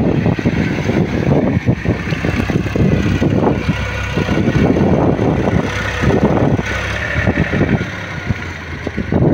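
Tractor diesel engine running steadily with a loud, rough rumble.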